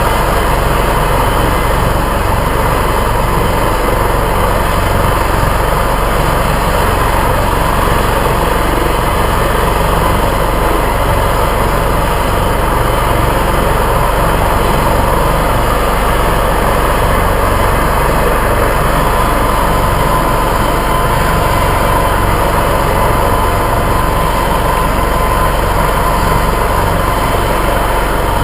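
Air-ambulance helicopter in flight: steady, loud turbine and rotor noise with a constant whine that grows a little stronger about two-thirds of the way through.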